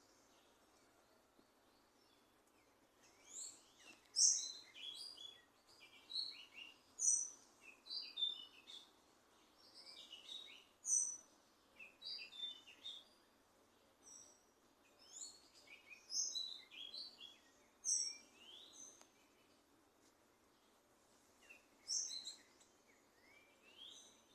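Small birds singing: bursts of quick, high chirps and short sliding notes, with a pause of a couple of seconds before a last short phrase near the end, over faint steady background noise.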